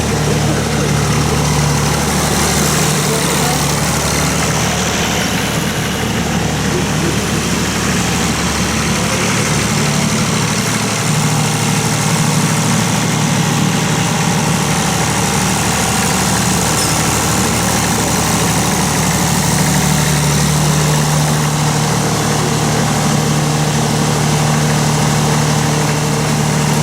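Tractor engines idling and running steadily. A deeper engine note drops away about ten seconds in.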